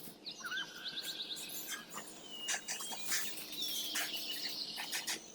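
Birds calling outdoors: short whistled chirps and gliding notes, with a quick trill of repeated notes about half a second in.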